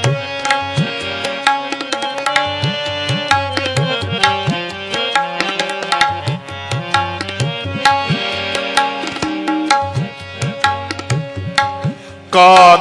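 Instrumental interlude of Sikh kirtan: harmonium holding and moving through melody notes over a steady tabla rhythm, the low drum strokes bending in pitch. A singing voice comes back in near the end.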